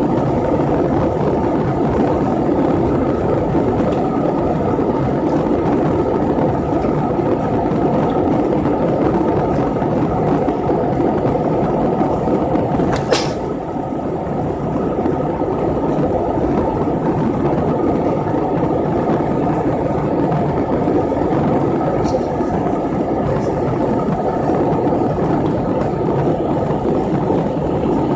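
Steady, loud running noise inside a travelling vehicle, with a single sharp click about 13 seconds in.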